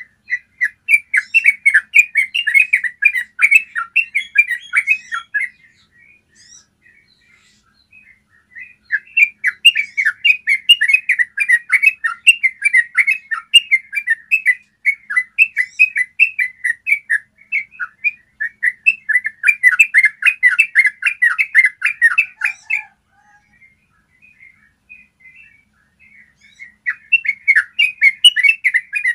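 Yellow-vented bulbul singing long rolling phrases of fast, bubbling notes, in four bursts of several seconds each with short pauses between.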